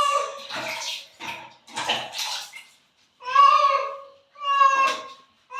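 A domestic cat meowing loudly and repeatedly while being bathed, long drawn-out meows of protest, with water splashing and pouring between the calls in the first couple of seconds.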